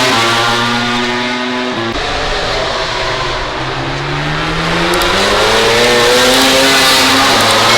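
MotoGP racing motorcycle engines at high revs. One engine note holds steady, then drops away about two seconds in. Then another bike's engine climbs steadily in pitch and grows louder as it accelerates.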